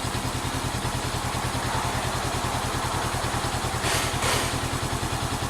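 A 400cc motorcycle engine running with a steady, even low pulsing beat. A brief hiss comes about four seconds in.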